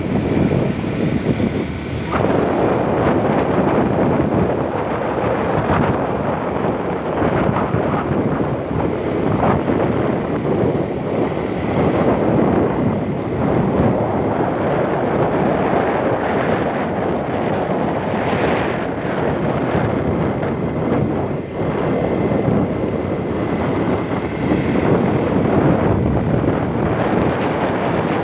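Wind buffeting the microphone: a loud, steady, rough rushing noise that swells and dips.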